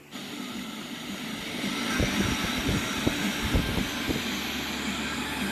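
X33 Bluetooth speaker in FM radio mode playing steady radio static hiss, with a few low thumps about two to four seconds in.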